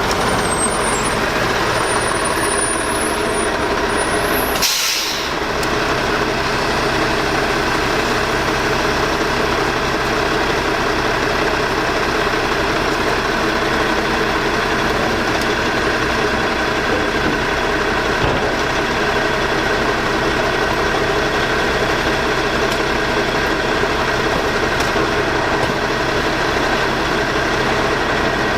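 Crane Carrier LET garbage truck with a Maxon side-loader body, its diesel engine running steadily throughout. A short burst of air hiss, like an air brake releasing, comes about five seconds in.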